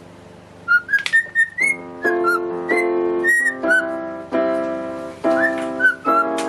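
A parrot whistling a tune in short, clear notes over music with sustained chords. The whistling begins just under a second in, and the chords join at about a second and a half.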